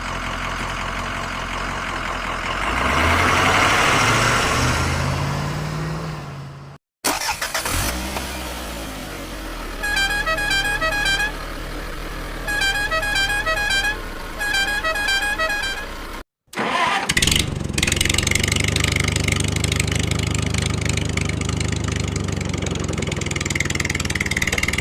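Vehicle sounds in three cut pieces: an engine note rising in pitch, then a warbling musical horn tune played three times over an engine, then a steady engine running.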